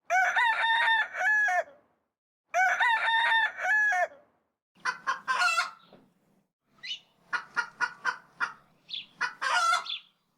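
Rooster crowing twice, the two crows nearly identical, followed by a series of short clucking calls in quick runs.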